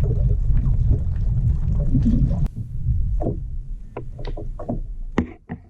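A kayak on the water: a loud low rumble that cuts off suddenly about halfway through, then a string of short knocks and small splashes against the hull.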